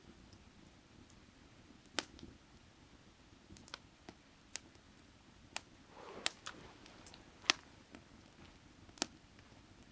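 Burning firewood crackling: sharp, irregular pops and snaps roughly once a second, with a brief soft hiss about six seconds in, over a faint steady low rumble.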